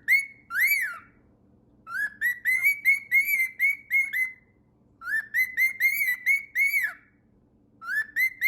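Male grey cockatiel whistling runs of quick, arching notes, each rising and falling in pitch, in several phrases broken by pauses of about a second.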